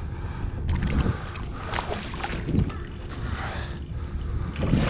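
Water sloshing around a fishing kayak with wind rumbling on the microphone, broken by a few irregular sharp knocks.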